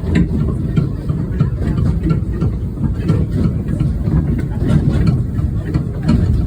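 Steady low rumble of a narrow-gauge train running, with faint scattered clicks.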